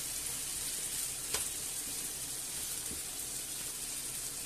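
Chicken pieces and chorizo slices sizzling in hot olive oil in a frying pan: a steady hiss, with one light click about a second and a half in.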